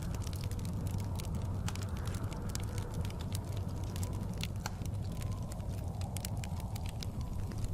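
Fireplace crackling, with many sharp irregular pops and snaps, over a steady low rumble of blizzard wind with a faint wavering howl.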